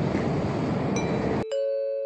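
Rumble of a moving train that cuts off suddenly about one and a half seconds in, replaced by an electronic chime: two clear notes struck in quick succession and held, the second higher.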